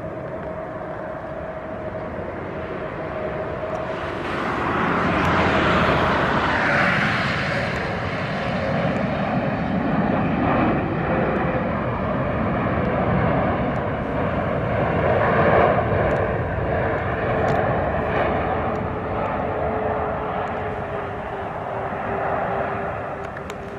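Jet engines of a Boeing 747 freighter: a steady whine that slowly falls in pitch throughout, under a broad engine rumble that swells about four seconds in and stays loud.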